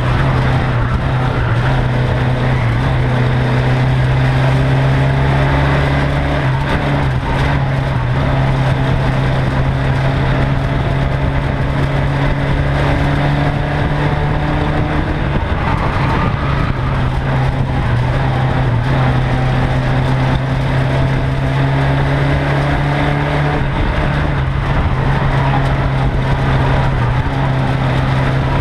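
Ministox Mini's small four-cylinder engine running hard under race load, recorded on board the car, its note mostly steady with gentle rises and falls in revs through the bends, over a constant rush of wind and road noise.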